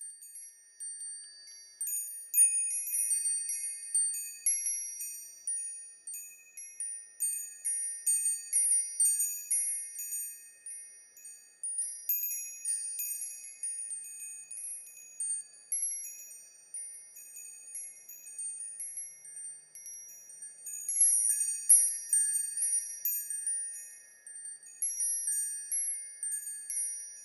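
Wind chimes ringing, with many overlapping high, bell-like strikes that grow busier about two seconds in and peak a little after the twenty-second mark.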